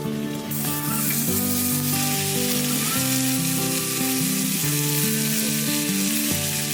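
Food sizzling as it fries: a steady hiss that cuts in about half a second in, over acoustic guitar background music.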